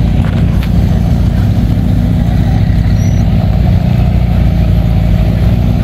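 McLaren supercar's twin-turbo V8 running with a steady deep rumble at low speed as the car creeps past, held at an even pitch with no revving.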